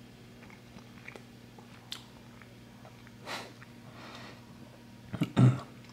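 A man chewing a mouthful of a soft cherry bakewell-flavoured snack with small, faint mouth noises and a breath through the nose, then a brief loud muffled vocal sound with his mouth full near the end. A steady low electrical hum lies underneath.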